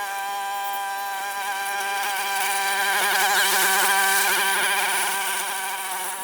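Small engine of a grass-cutting machine running at a steady high speed, its pitch wavering for a moment about halfway through as it works.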